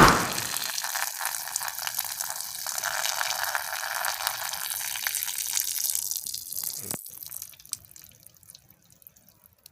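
A sudden thump at the start, then a steady stream of liquid splashing for about seven seconds, trailing off into faint drips and near quiet.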